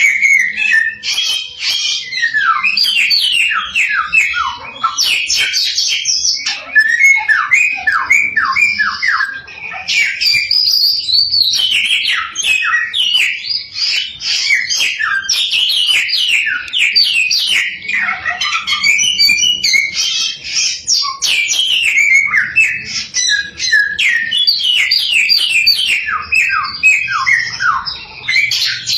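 Samyong songbird singing continuously in a long, varied song. It pours out rapid runs of short, mostly falling whistled notes with hardly a pause.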